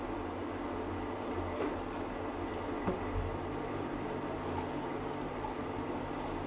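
Eggs boiling in a pot of water: a steady bubbling hiss over a low hum, with a few faint clicks.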